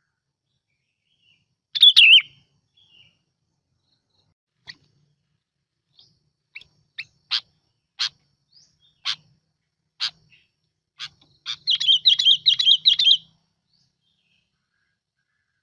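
Bulbul singing: a short warbled phrase, then a string of single sharp whistled notes about a second apart, then a fast bubbling run of warbles near the end. A lure recording of the bird's song, the kind used to call in bulbuls.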